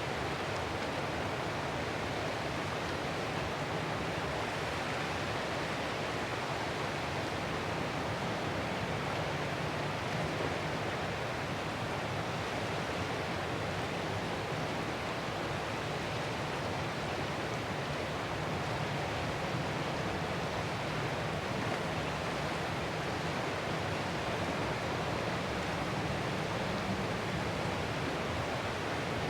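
Ocean surf as a steady, even wash of wave noise with no distinct crashes standing out.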